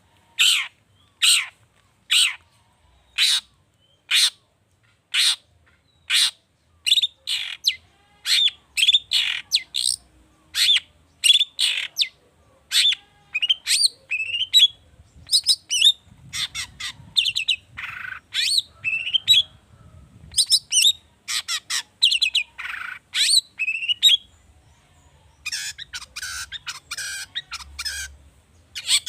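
Long-tailed shrike (cendet) singing a song rich in mimicked calls. It starts with sharp, harsh, falling notes about one a second, then speeds up into a busy, varied chatter, with a short pause near the end.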